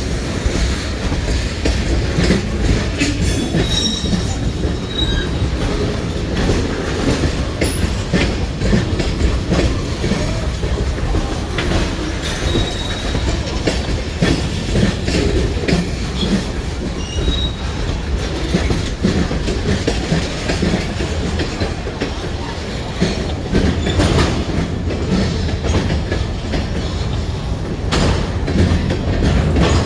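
Freight train cars rolling past at close range, wheels clacking steadily over the rail joints. Brief high-pitched wheel squeals come a few times along the way.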